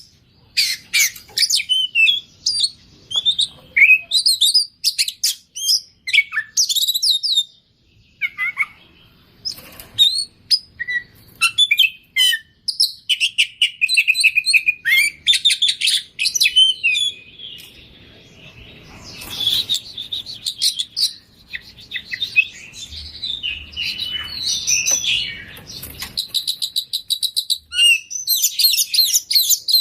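Oriental magpie-robin (kacer) singing in full voice: a loud, varied run of sweeping whistles, chirps and fast trills, packed with phrases mimicked from other birds.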